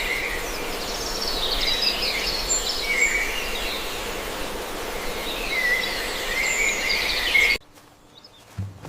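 Small birds chirping and twittering over a steady outdoor background noise, which cuts off suddenly near the end.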